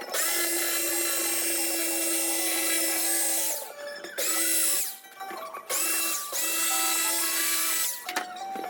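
Electric saw cutting foam, run in three bursts: a long one of about three and a half seconds, a short one, then another of about two seconds, its motor pitch rising as it spins up and dropping as it stops each time.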